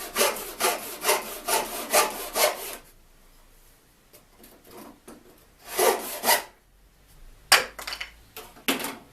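Rusty handsaw, its blade rubbed with tea-light wax, cutting wood in quick back-and-forth strokes, about four a second. It stops about three seconds in, saws a few more strokes about six seconds in, and there are a couple of sharp hits near the end.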